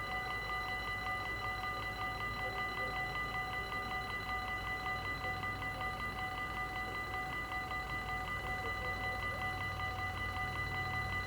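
Dutch level-crossing warning bell ringing in a rapid, steady beat, signalling that a train is approaching.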